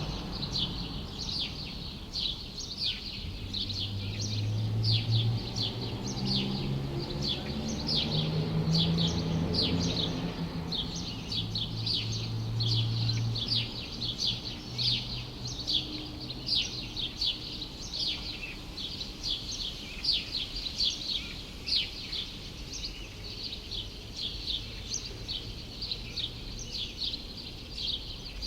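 Small songbirds chirping rapidly and continuously, several quick high chirps a second. Under them a low hum is heard for the first half and then fades out.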